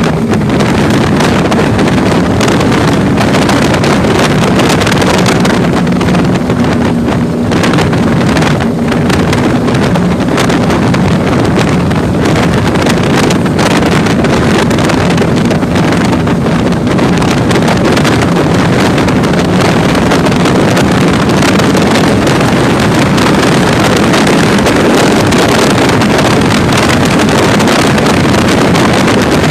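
Motorboat engine running steadily under heavy wind buffeting the microphone, with a loud, constant rush of wind over a low engine hum.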